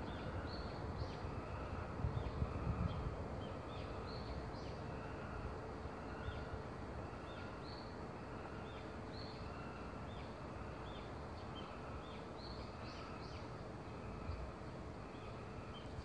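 Small birds chirping: short, high notes, a few a second and unevenly spaced, over a steady low outdoor hum.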